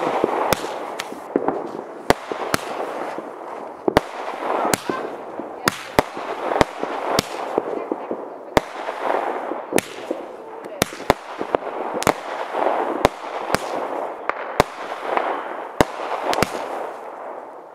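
Fireworks going off: sharp bangs at irregular intervals, about one or two a second, over a continuous crackling hiss that swells and fades.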